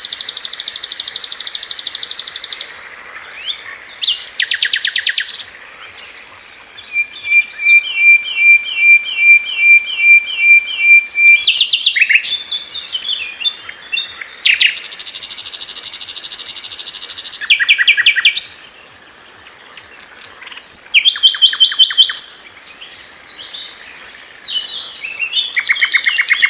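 Sikatan londo (a flycatcher) singing a varied, harsh song. Buzzy rasping phrases alternate with fast rattling trills and, in the middle, a run of clear repeated notes about two a second.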